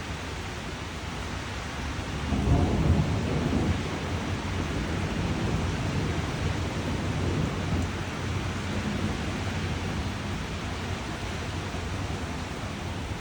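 Steady rain falling, with a roll of thunder that swells about two seconds in, is loudest for a second or so, and rumbles on more faintly for several seconds before fading back into the rain.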